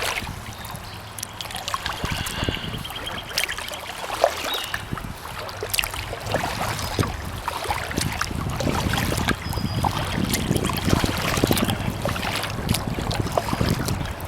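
Kayak paddle strokes in calm pond water: the blade dipping and splashing, with water trickling off it between strokes. Wind rumbles on the microphone, more strongly in the second half.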